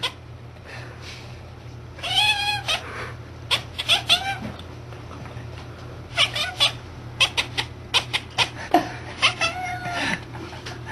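A domestic cat barking: short, high yelping calls about two, four and nine seconds in, with runs of quick sharp clicks between them.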